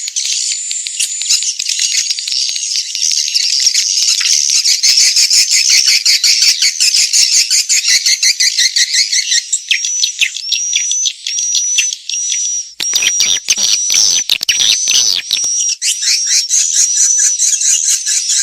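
Edible-nest swiftlets calling: a dense, fast chittering twitter of rapid clicks and trills, with repeated short high whistled notes through the second half and a harsher clicking stretch around the middle. This is a swiftlet lure call, played in swiftlet houses to draw the birds in to roost and nest.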